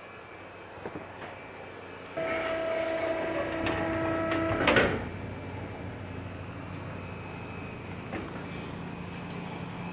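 Truck liftgate's electric hydraulic pump starting about two seconds in with a steady whine, running for about two and a half seconds and cutting off with a brief squeal. A lower steady hum follows, with a few light clicks before the pump starts.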